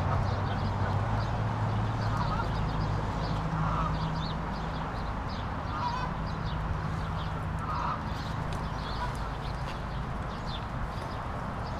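Short honking bird calls, one every couple of seconds, over a steady low outdoor rumble.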